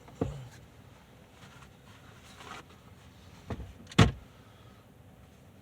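A few short knocks over a quiet, steady background, the loudest about four seconds in, like handling thumps inside a car.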